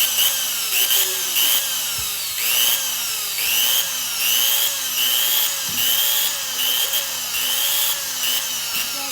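Power drill motor run hard and revved up and down over and over, its whine rising and falling about once or twice a second as it is switched back and forth. The abused drill is overheating and smoking.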